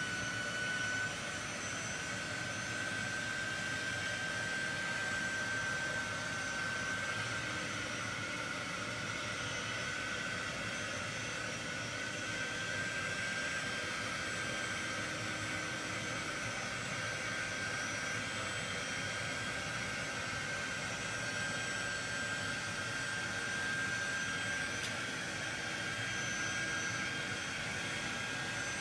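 Handheld hot-air blower, a heat gun or hair dryer, running steadily: an even rush of air with a steady high whine, drying the edges and seams of a craft piece so no water is left on them.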